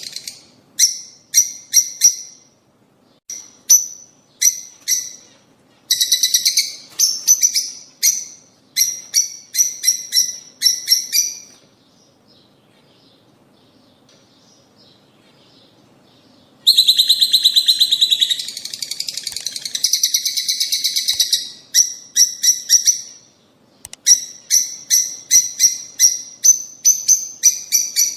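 Lovebirds calling in quick runs of sharp, high-pitched chirps. A pause of several seconds comes near the middle, then a dense burst of overlapping chattering calls. These are the breeding-season calls used to stimulate caged rosy-faced and Fischer's lovebirds to pair and mate.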